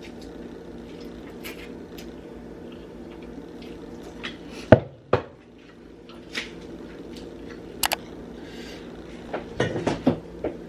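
Utensil clinking and knocking against a bowl during eating: scattered separate knocks, the loudest about halfway through and a quick cluster near the end, over a steady low hum.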